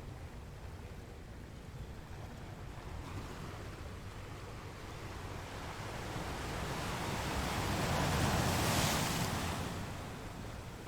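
Ocean surf washing steadily, with one wave swelling and breaking about eight seconds in, then drawing back.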